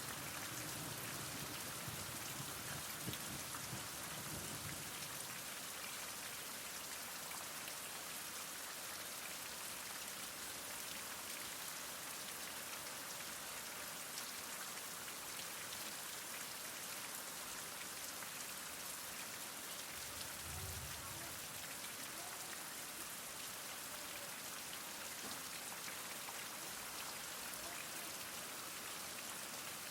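Heavy rain falling steadily, an even hiss of many drops hitting surfaces.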